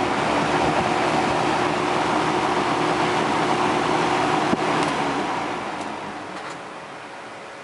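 Kmart Lakewood three-bladed mini box fan running with a steady whoosh of air and a faint motor hum. About four and a half seconds in there is a sharp click, and the fan then winds down, its air noise fading away over about two seconds.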